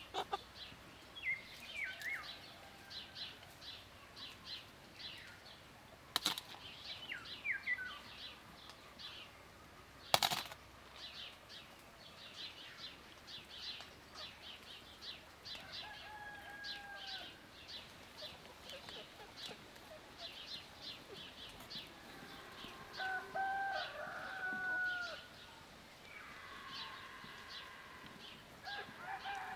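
Small birds chirping rapidly and continuously, with two sharp knocks about six and ten seconds in. Drawn-out bleats come about halfway through and again a few seconds later.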